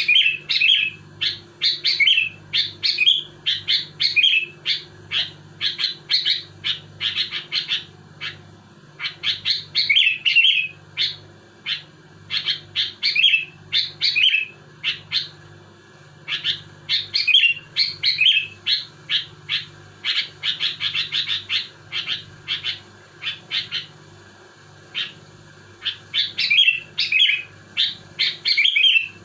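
Sooty-headed bulbul (kutilang) singing hard in rapid, tightly packed runs of chirpy phrases, with short pauses between bursts. A faint low hum runs underneath.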